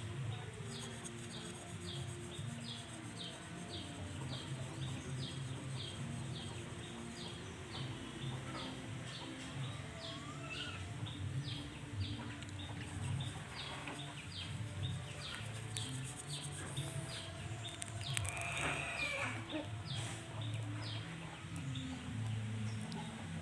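Birds calling in the background: a short high chirp repeats about twice a second, with lower clucking calls among it.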